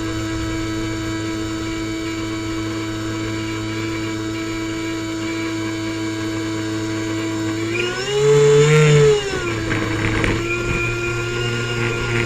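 Airboat engine and propeller running at a steady pitch. About two-thirds of the way through, it briefly revs up louder and higher, then settles back to a steady run.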